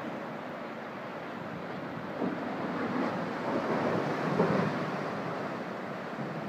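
Storm surf: waves rushing and breaking. A bigger surge builds about two seconds in, is loudest near the middle and then eases.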